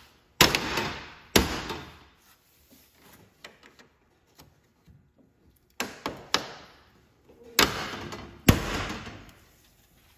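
Six sharp knocks in three pairs, each ringing briefly: a vehicle trim piece being struck to snap its clips into place.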